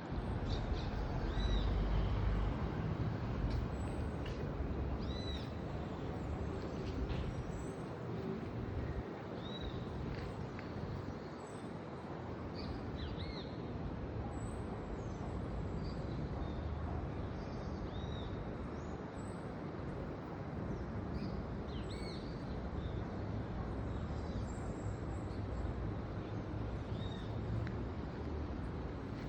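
Steady rushing of heavy rain approaching, with birds calling over it in short arched chirps every second or two.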